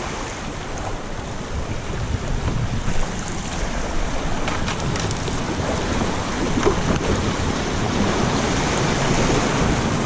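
Fast river current rushing and splashing around a kayak in shallow rapids, steady throughout, with wind buffeting the action-camera microphone.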